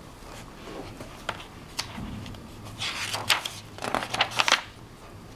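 Pages of a paper picture book being turned and handled: short papery rustles and soft clicks, coming in a quick flurry in the second half.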